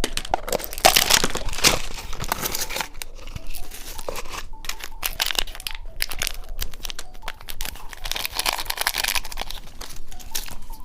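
Snack packaging being handled, crinkled and torn open, a dense run of irregular crackling and tearing noises close to the microphone.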